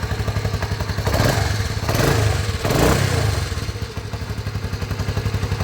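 Honda CT110 postie bike's single-cylinder four-stroke engine idling with an even pulse, blipped up three times in quick succession about a second in, two seconds in and three seconds in, then settling back to idle. The idle speed has just been adjusted.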